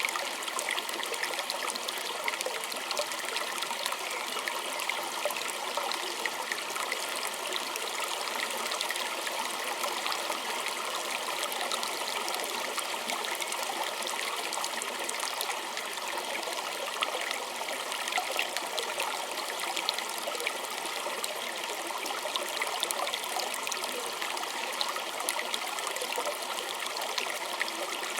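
Small stream running and trickling steadily over stones, with many small splashes and bubbling.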